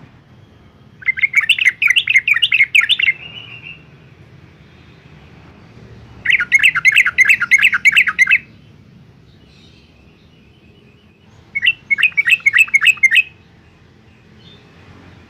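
Yellow-vented bulbul singing: three bubbling bursts of rapid notes, each about two seconds long, a few seconds apart.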